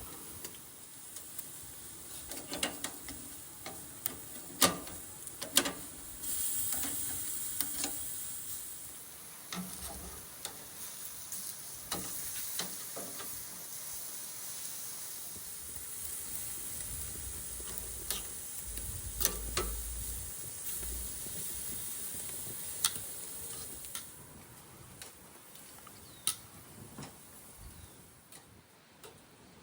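Meat sizzling on a charcoal mangal grill, setting in about six seconds in and dying down near the end, with scattered sharp clicks and knocks throughout.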